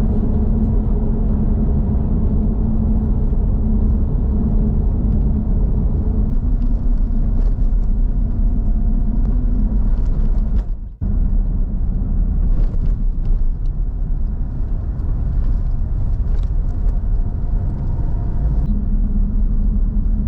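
A Mitsubishi Pajero being driven: a steady engine and road rumble with a constant low hum. The sound breaks off briefly about halfway through, then carries on the same.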